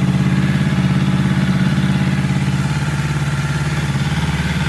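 Kawasaki Versys 650's parallel-twin engine idling steadily, just after start-up.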